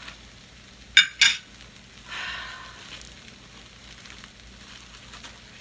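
Chicken sizzling in a frying pan, with two sharp clacks about a second in as a plate is set down, and a short burst of hiss a little later.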